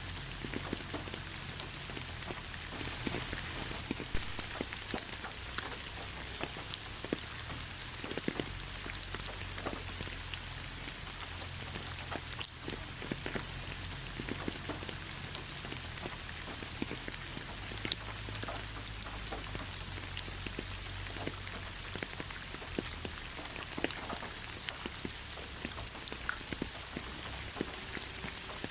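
Steady rainfall: an even hiss of rain with many individual drops tapping sharply throughout, over a steady low rumble.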